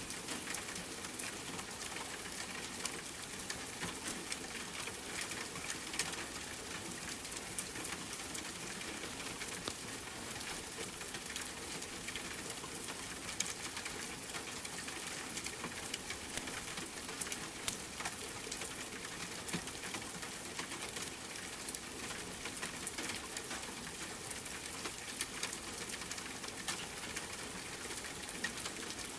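Steady rain, dotted throughout with small crackles and pops from a wood fire.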